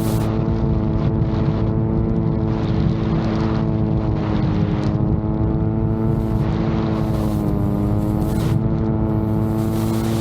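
VTOL drone's propellers droning at a steady, even pitch that dips briefly about seven and a half seconds in, with strong wind buffeting the microphone underneath.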